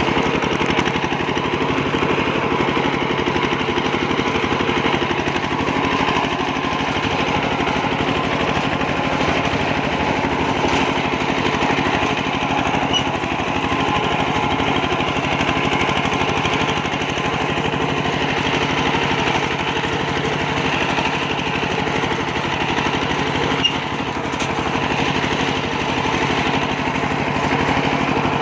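Single-cylinder diesel engine of a Kubota two-wheel walking tractor running steadily with a fast, even thudding beat.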